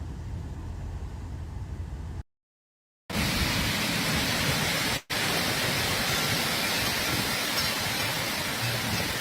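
A low rumble, cut off by a moment of silence about two seconds in. Then a loud, steady rushing hiss of storm rain and wind that breaks off very briefly near the middle.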